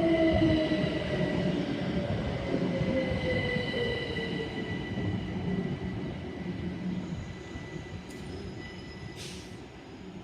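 Class 387 electric multiple unit braking to a stop: its traction motor whine falls steadily in pitch over the first few seconds, over a steady high squeal, and the sound dies away. A short hiss of air comes near the end.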